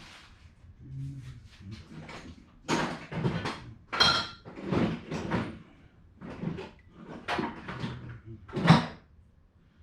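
A run of irregular rough scraping and rattling strokes, about one to two a second, with a brief metallic clink about four seconds in and the loudest stroke near the end.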